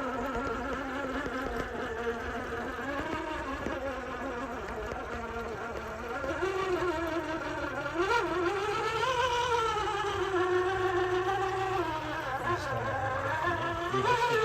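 Electric motor and geared drivetrain of a scale RC crawler truck whining, its pitch rising and falling with the throttle. It grows louder about six seconds in, with a quick rise and dip in pitch a couple of seconds later.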